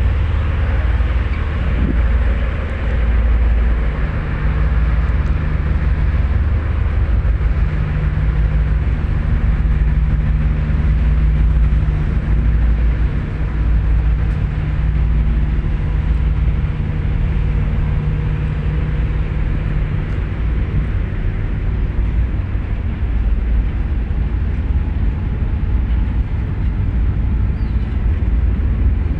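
Steady low engine drone with a held hum that comes in about four seconds in and fades out about twenty seconds in, typical of a ferry's engines running under way.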